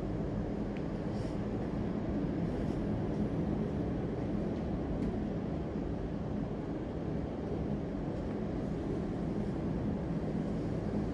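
Steady low rumbling background noise with a faint constant hum.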